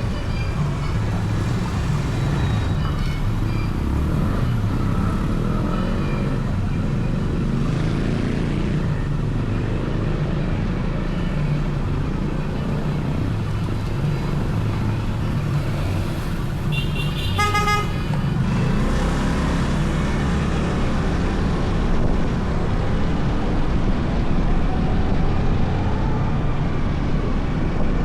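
Motorcycle running along city streets with a steady low rumble of engine, wind and road noise. A vehicle horn honks briefly about 17 seconds in.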